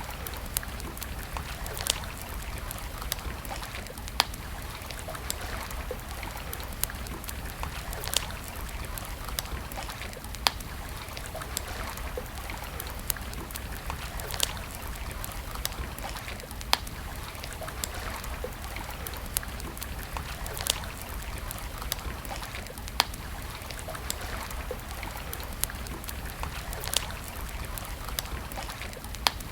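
Wood campfire crackling, with sharp single pops every second or two over a steady rushing hiss and a low rumble.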